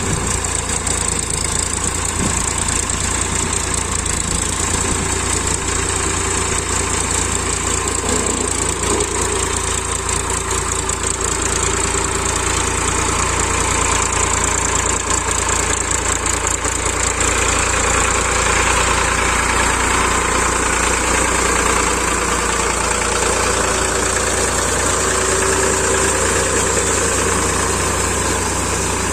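Powertrac 445 DS Plus tractor's diesel engine running steadily while working a field, getting a little louder about halfway through.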